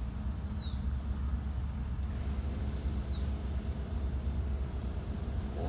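Steady low outdoor rumble, with a bird's short high falling chirp twice, about half a second and three seconds in.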